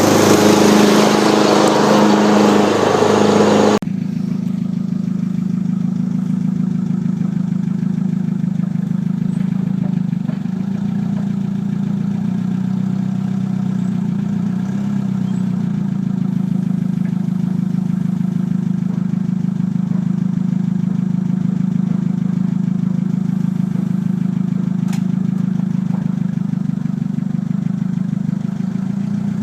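A 2007 Chevy Silverado Classic 1500 pickup driving at a steady pace, its engine and road noise making a steady low drone. For the first few seconds a louder hiss lies over it and cuts off suddenly about four seconds in.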